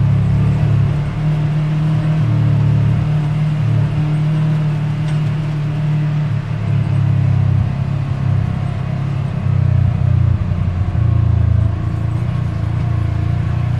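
Side-by-side UTV engine running under way, a steady low drone whose pitch wavers and shifts with the throttle through the middle.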